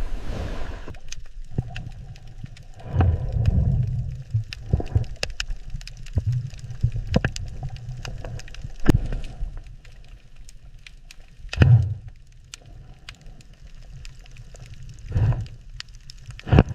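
Underwater ambience: a low rumble with scattered sharp clicks and several louder bubbling surges.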